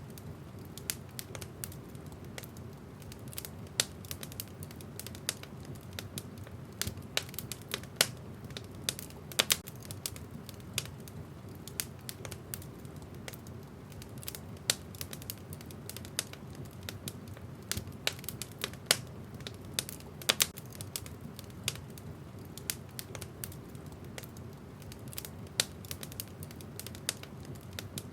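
Wood fire in a fireplace crackling: irregular sharp pops and snaps, a few much louder than the rest, over a steady low rush of the flames.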